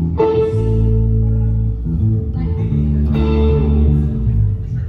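Live band playing held chords on electric guitar over a bass guitar line, with no singing; new chords are struck twice.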